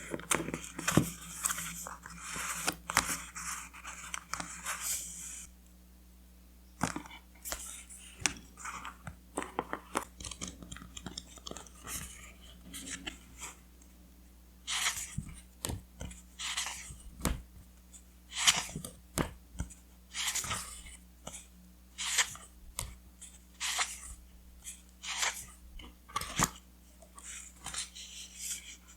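Paper and scrapbooking materials being handled: irregular rustles, crinkles and soft taps, with a denser run of rustling in the first few seconds, then separate short strokes with quiet gaps between.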